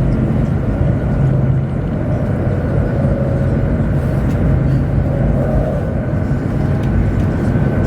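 Steady rumble of a Chinese high-speed train running at speed, heard from inside the passenger car, with a constant low hum and a faint higher whine over it.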